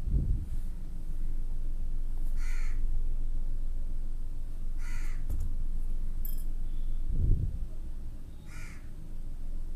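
A bird calling three times, about two and a half seconds apart, over a steady low hum, with a low thump at the start and another about seven seconds in.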